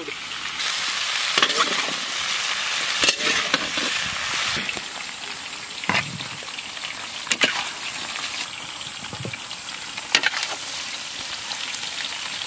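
Cauliflower florets deep-frying in oil in a large wok, a steady sizzle. A metal perforated skimmer knocks and scrapes against the wok and a metal platter about six times as the fried pieces are lifted out.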